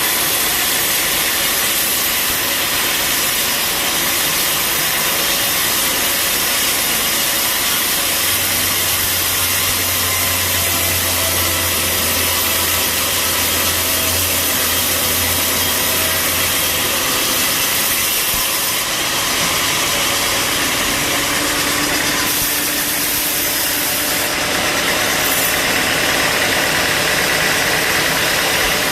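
Bandsaw sawmill running with a steady, loud mechanical noise. A low hum joins in about eight seconds in and drops away a little after halfway.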